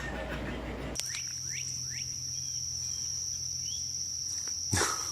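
Outdoor ambience after a sudden cut about a second in: a steady high-pitched insect-like trill, with a few short chirps over it and a brief burst of noise near the end.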